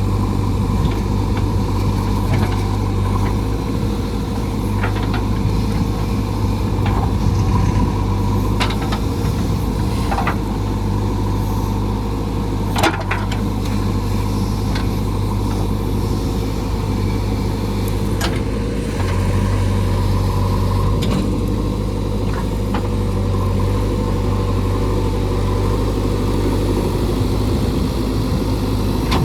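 JCB 3DX backhoe loader's diesel engine running steadily, with scattered sharp cracks and knocks over it, the loudest about 13 seconds in.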